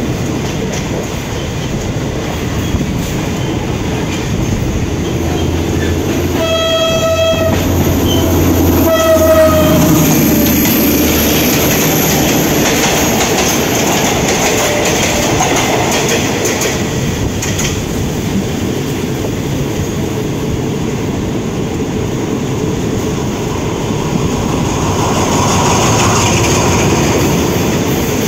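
State Railway of Thailand ordinary train running on the rails, heard from an open coach window. A train horn sounds twice, a blast of about a second some seven seconds in and a shorter one about two seconds later.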